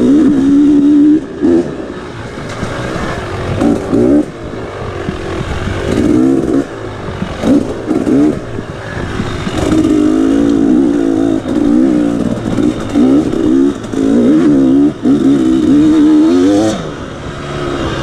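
Dirt bike engine revving in repeated bursts on and off the throttle, its pitch climbing and dropping as it is ridden.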